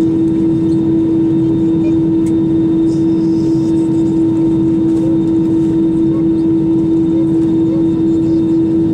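Steady drone of an Airbus A320-200 heard inside the cabin, with one strong steady low tone over it. The sound is even throughout.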